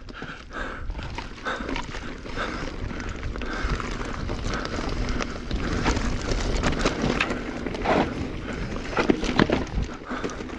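Irregular clattering, knocks and crunching of a mountain biker on a rocky dirt trail, with a steady low rumble of wind on the chest-mounted camera's microphone.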